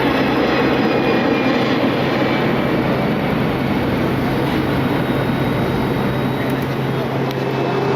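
Steady aircraft turbine noise on an airport ramp, a constant rush of noise over a low hum, with a faint whine falling in pitch in the first couple of seconds.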